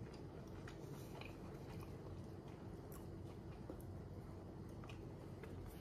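Faint chewing of a mouthful of food close to the microphone, with small scattered mouth clicks over a low steady hum.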